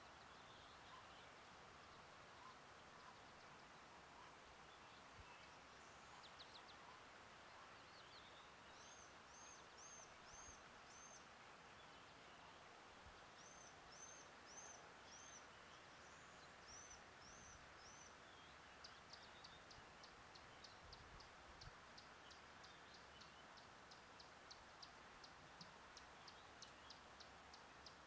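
Near-silent bush ambience with a faint steady hiss, and a bird calling in runs of four or five short, high, arched notes. About two-thirds of the way through, a fast series of high ticks, about four a second, takes over.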